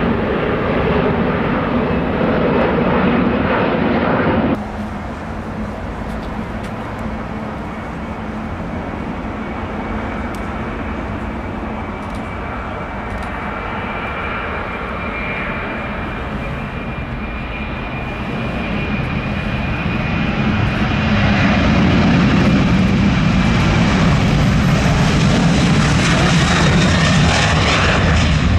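Jet airliner engines, loud, then cut off abruptly about four and a half seconds in. A quieter engine sound follows and builds steadily through the second half to a loud, full sound with a high whine, as an airliner draws near.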